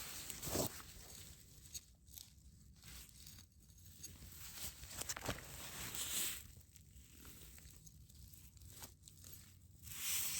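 Faint rustling and crackling with scattered small clicks, and a few louder rustles about half a second in, around six seconds and near the end.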